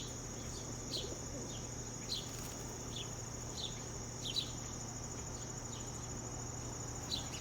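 Small birds at feeders giving short, repeated chirps, roughly one every half second to second, over a steady high-pitched, insect-like drone and a low hum.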